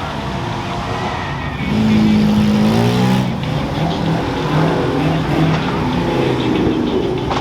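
A car engine revving, its pitch falling and rising, and growing louder about two seconds in.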